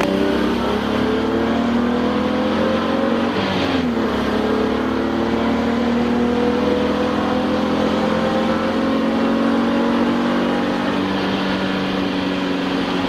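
Touring-class race car engine heard from inside the cockpit under power, its pitch climbing slowly and steadily. The pitch dips briefly about four seconds in, then keeps climbing.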